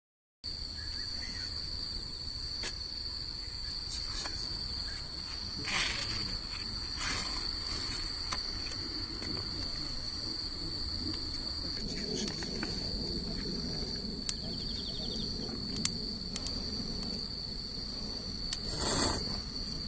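Crickets chirping in a steady high trill, with a few brief rustles and knocks about six and seven seconds in and again near the end.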